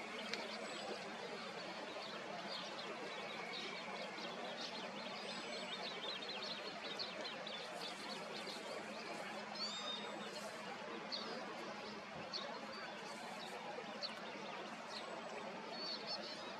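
Several small birds chirping and calling in quick, overlapping short notes over a steady background hiss.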